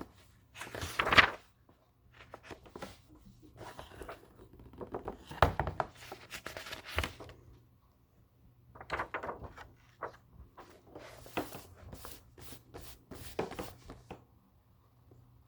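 Books being handled close up: pages rustling and turning in a series of short papery bursts, with light taps and knocks, the loudest about a second in.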